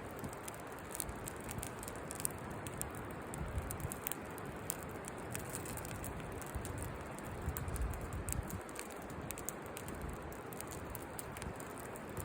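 Campfire burning in a fire pit, crackling with frequent small sharp pops over a steady hiss.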